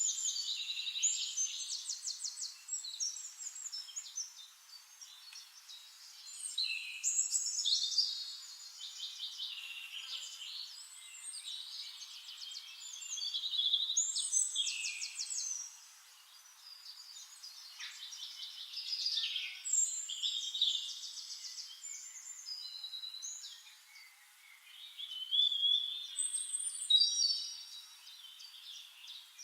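Songbirds singing: phrases of rapid, high trills and chirps, each a few seconds long, with short pauses between them.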